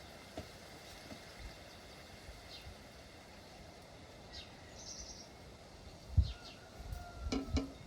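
Birds chirping in short high calls over a steady outdoor hiss. Near the end there are several low thumps and sharp knocks, the loudest about six seconds in.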